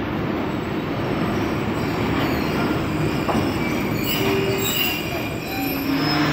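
Passenger train coaches rolling slowly into a station, a steady rumble of wheels on rail. Short high wheel squeals come in about four to five seconds in.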